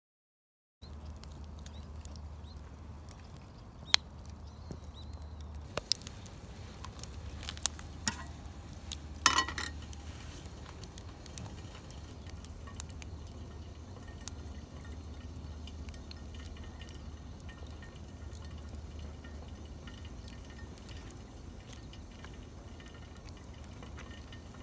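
A few light clinks and knocks scattered over a steady low hum, with a short cluster of clinks the loudest about nine seconds in.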